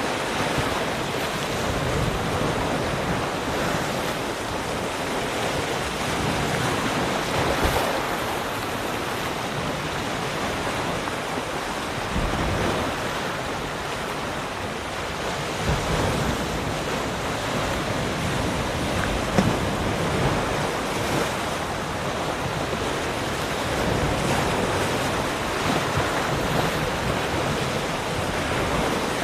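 Ocean surf: waves breaking and washing on a shore, a steady rush that swells and eases in level, with a couple of brief sharper splashes.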